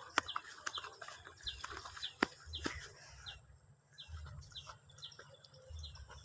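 A bird chirping over and over in short, high, falling notes, with a few sharp knocks in the first three seconds.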